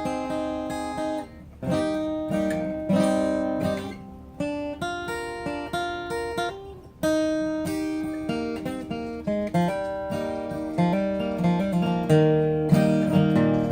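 Acoustic guitar playing a bluegrass intro, strummed chords changing every second or so, growing fuller in the bass near the end.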